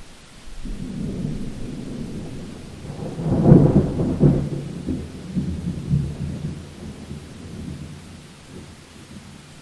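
Thunder rumbling through steady rain: a low rumble builds, peaks with a loud crack about three and a half seconds in, then rolls away over several seconds.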